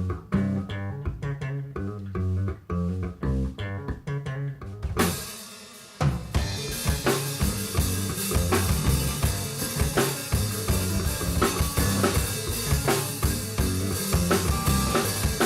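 A live band playing: a bass guitar riff alone, then a crash about five seconds in, and a second later the drum kit and full band come in together.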